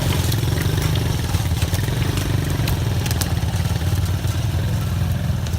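Off-road buggy engine running steadily, with scattered light clicks and rattles over the low rumble.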